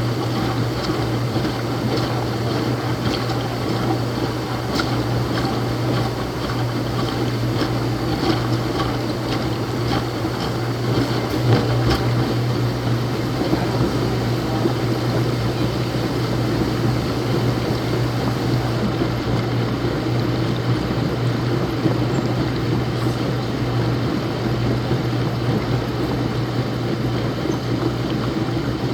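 Laundromat washing machine running: a steady low motor hum over an even wash of noise.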